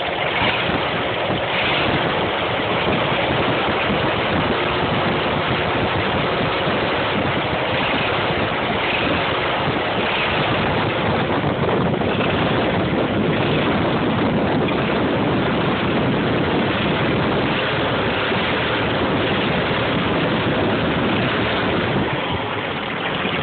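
GMC CCKW truck's straight-six engine running steadily, with the engine knock that the truck has.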